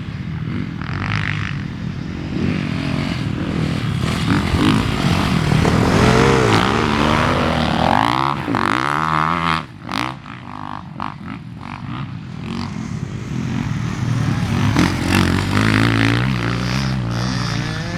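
Dirt bike engine revving up and down as it is ridden round a motocross track, with wind noise on the camera microphone. The throttle drops off sharply about ten seconds in, then the engine builds again.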